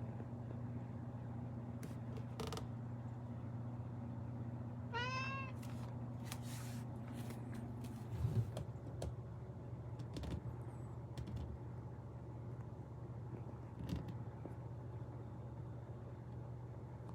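A domestic cat meows once, short and high, about five seconds in, over a steady low hum, with a few scattered light knocks.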